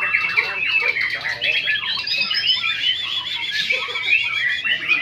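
White-rumped shamas (murai batu) singing at a contest, several at once, in overlapping loud whistled phrases and trills with quick runs of repeated notes.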